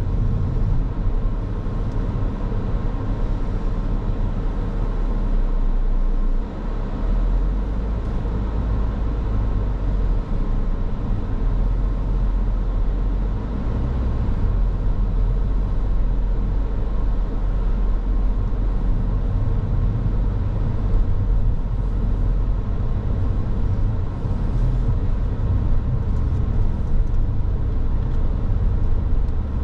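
Steady running noise of a car on the road, a low rumble of engine and tyres with a dip about six seconds in.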